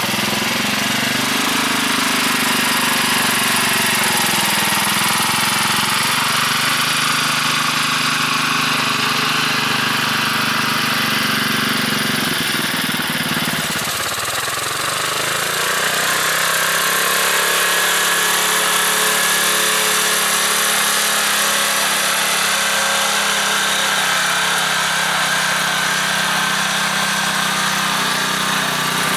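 Engine of a homemade 4x4 tractor built from salvaged parts, running steadily. About halfway through its pitch dips and it settles at a lower, steady speed.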